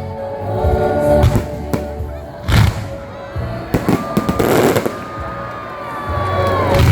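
Fireworks going off: a string of sharp bangs, then a crackling burst about four seconds in, over background music.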